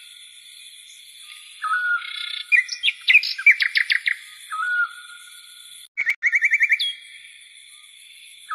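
Birdsong: a short whistled note repeating every few seconds, with quick runs of chirps in the middle, over a steady high-pitched background.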